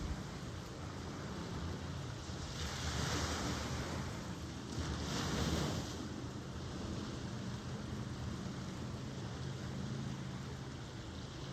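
Ocean waves washing on the shore, with two louder breaking waves about three seconds in and again around five and a half seconds. A steady low hum runs underneath.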